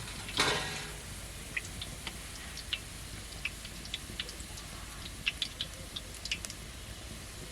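Food frying in hot oil: a short sizzle about half a second in that dies away, then scattered sharp pops and crackles.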